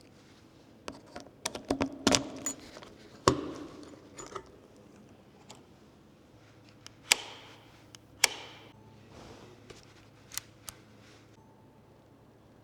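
Scattered sharp clicks and knocks, about a dozen at irregular intervals, some ringing briefly, like small hard objects being handled.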